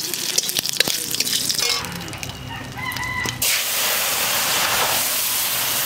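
Bay leaf and cumin seeds sizzling and crackling in hot oil in a metal wok, with a few scrapes and clicks of the spatula. A rooster crows in the background about two seconds in. Then, about three and a half seconds in, the catfish-and-papaya curry is poured into the hot oil and the frying jumps at once into a loud, steady hiss.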